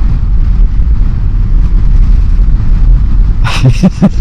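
Motorcycle riding along at speed under a heavy, steady wind rumble on the microphone. About three and a half seconds in, a quick run of sharp pulses begins, about five a second.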